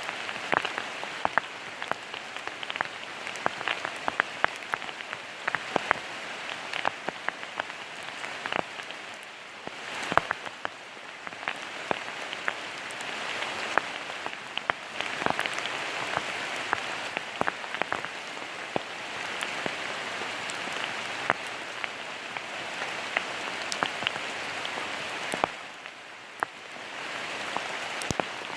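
Steady rain falling, with many separate sharp drop hits close to the microphone; it eases briefly near the end.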